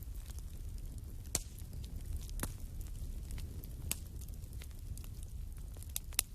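Fire burning in a fireplace: a steady low rumble with sharp crackles and pops, about five of them, two in quick succession near the end.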